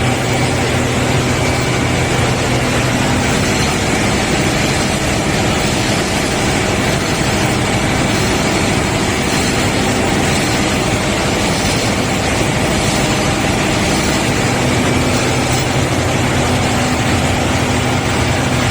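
An engine running steadily: a constant drone with a low hum that does not change.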